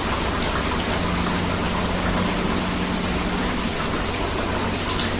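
Steady rainfall mixed with rushing river water: an even, unbroken hiss.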